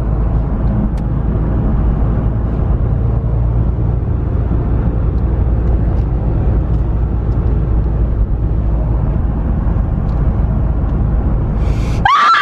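Steady road and engine rumble inside a moving car's cabin. A sudden loud, high, steady tone cuts in at the very end.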